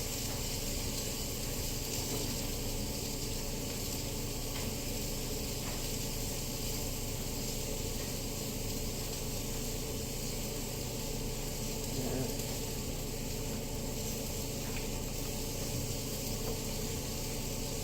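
A pan of onions frying with a steady, even sizzle, the heat turned down now that they are cooked.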